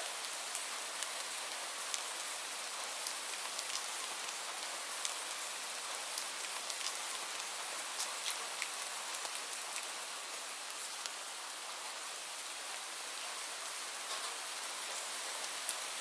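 Steady rain: an even hiss of falling rain with many sharp individual drop ticks scattered through it, and no thunder.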